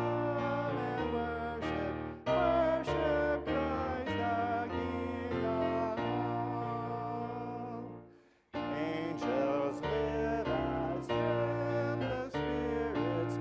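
Hymn of praise sung with instrumental accompaniment in sustained chords. It breaks off briefly about eight seconds in, then starts again.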